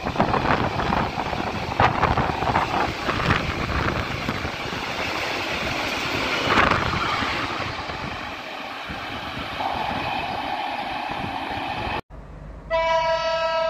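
Freight train of tank wagons rolling past at speed: a steady rumble and rush of air with irregular clacks as the wheels cross rail joints. About twelve seconds in the sound cuts off suddenly, and near the end a loud steady horn-like chord of several notes begins.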